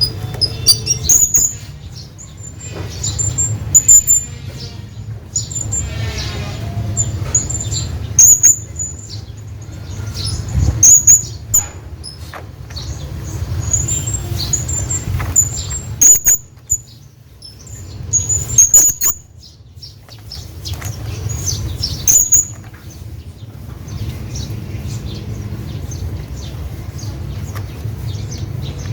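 Hanging parrot giving short, very high-pitched squeaky calls in irregular clusters every few seconds, which stop a little over twenty seconds in. A steady low hum runs underneath.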